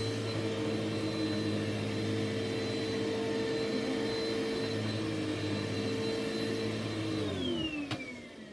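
Hoover WindTunnel upright vacuum cleaner running steadily with a constant whine, then switched off about seven seconds in, its motor winding down in a falling pitch. A single click comes as it dies away.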